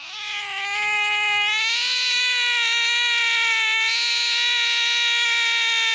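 A cat giving one long, unbroken yowl, rising slightly in pitch about two seconds in and then holding steady until it cuts off suddenly near the end.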